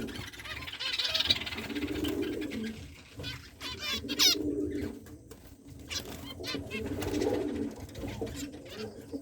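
Caged birds calling together: short high chirps and trills over repeated lower cooing calls.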